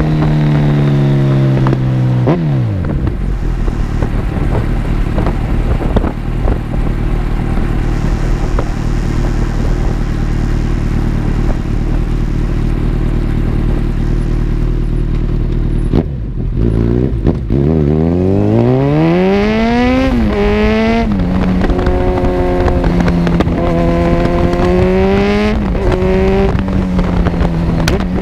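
Kawasaki Z1000 inline-four engine through an Arrow full exhaust system: the revs drop away to a steady idle for about fourteen seconds, then it accelerates with a rising pitch and pulls through the gears, the pitch stepping up and down.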